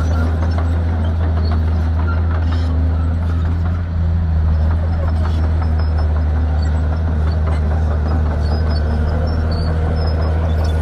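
Shantui bulldozer's diesel engine running steadily with a constant low drone.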